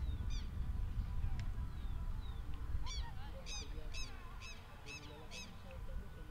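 A bird giving a series of short, sharp, shrill calls, one near the start and then about two a second for a couple of seconds, over a steady low rumble.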